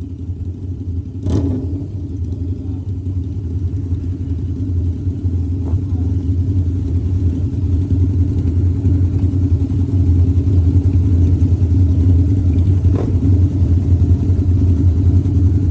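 Motorcycle engine running steadily under way, a low drone that grows gradually louder, with two brief knocks.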